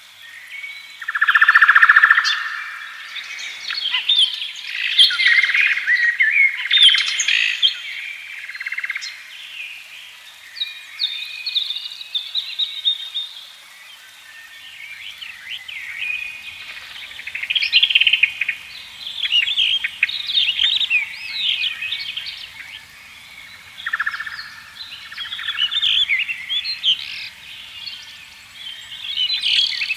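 Several songbirds singing and chirping at once in a continuous dawn-chorus-like mix of warbles and quick high chirps, louder in bursts.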